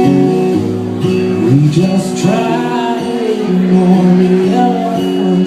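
Acoustic guitar played live in a slow song, with a man's singing voice bending and gliding over the chords.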